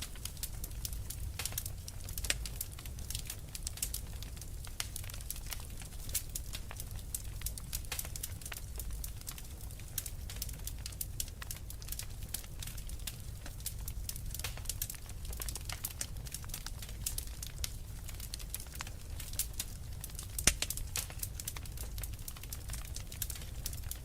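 Wood fire crackling with a steady stream of small snaps and pops over a low rumble, with a louder pop about two seconds in and another near the end.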